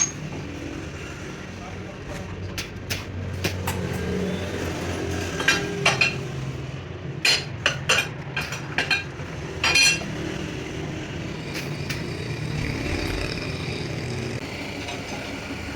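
A machine running steadily with a low hum, while metal tools strike metal in a series of sharp, ringing clinks and taps between about two and ten seconds in.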